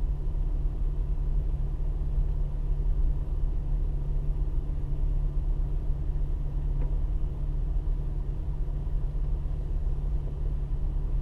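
Steady low rumble of a car's engine and road noise inside the cabin while driving slowly.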